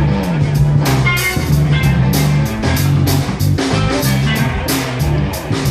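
Live blues-rock band playing at full volume: electric guitar, bass guitar and drum kit, with a steady beat of drum and cymbal hits over held bass notes.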